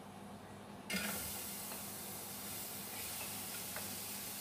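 Food dropped into hot oil in a steel cooking pot: the oil starts sizzling suddenly about a second in and keeps sizzling steadily, with a few light clicks of a spoon against the pot and plate.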